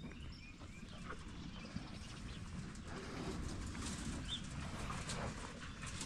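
Faint outdoor ambience of low steady noise with a few short, high bird chirps.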